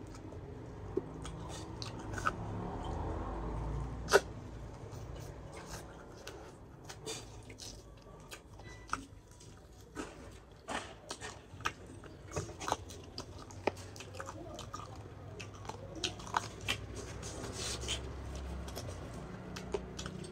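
A person chewing a mouthful of rice and pork eaten by hand, with many short sharp mouth clicks scattered through the chewing; the loudest click comes about four seconds in.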